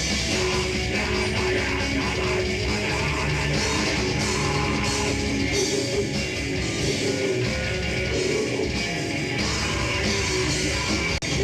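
A live rock band playing, with guitar and drum kit, loud and continuous; the sound drops out for an instant near the end.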